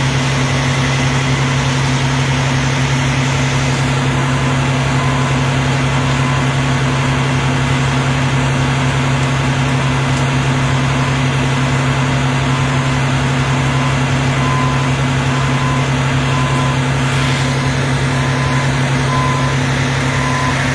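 A large vehicle's engine idling close by, a steady low drone that never changes. A faint short beep repeats at intervals through most of it.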